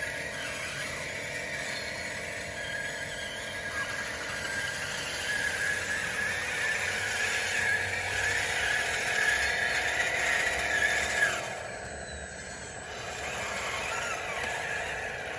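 DXR2 radio-controlled bulldozer running as it pushes dirt, its drive making a steady high tone. The sound grows louder about five seconds in, stops suddenly about eleven seconds in, then returns more faintly near the end.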